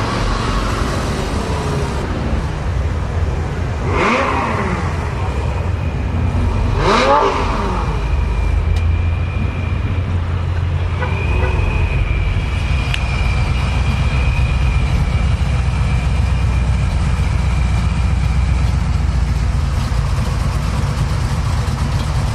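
Car engines revving and running as cars drive out: three sharp revs, each rising and falling in pitch, in the first eight seconds. Then a deep, steady engine rumble with a high steady whine over it for about ten seconds.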